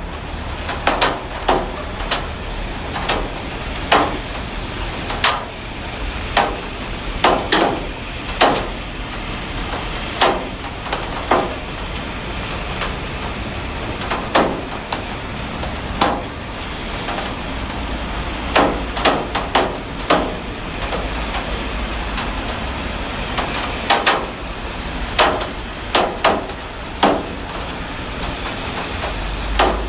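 Heavy rain falling steadily, with irregular sharp knocks about once a second, some in quick pairs, as heavy drops strike a hard surface.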